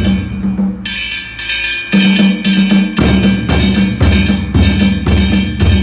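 Danjiri festival narimono practice: taiko drums beating a steady rhythm, with a high, sustained ringing joining about a second in. The deepest drum drops out for about a second near the middle, then comes back.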